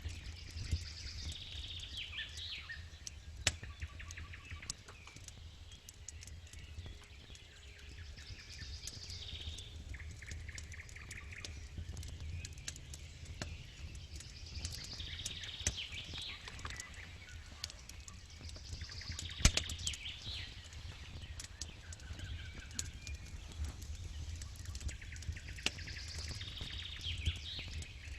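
Campfire crackling with scattered sharp pops, one louder pop about two thirds of the way through, over a steady low rumble. A songbird sings the same short phrase about every five to six seconds, five times.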